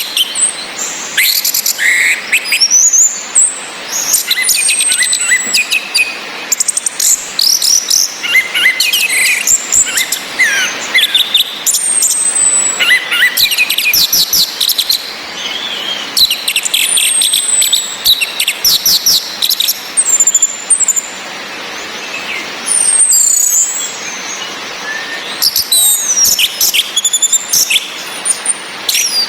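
Orange-headed thrush (anis merah) calls and song: quick high whistles, downward-sliding notes and rapid chattering trills that follow one another almost without pause. Under them runs a steady hiss of rain.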